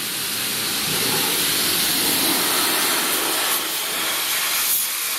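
Car wash pressure-washer wand spraying a steady high-pressure jet of water onto a leaf blower, a continuous hiss.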